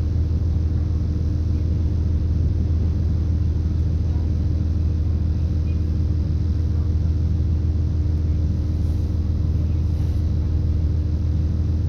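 Interior noise aboard a British Rail Class 170 Turbostar diesel multiple unit: a steady low rumble with a constant hum from its underfloor MTU diesel engine.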